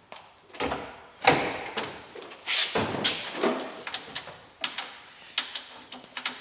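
Irregular knocks, clicks and clatters of hand-tool work on a bus fitting as a small job is finished off, the loudest strikes about a second in and around the middle.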